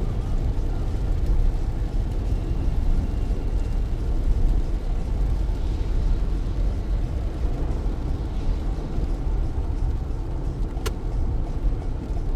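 Car driving on a rain-soaked road in heavy rain: a steady low rumble of tyres and road with a hiss of rain above it. A single sharp click near the end.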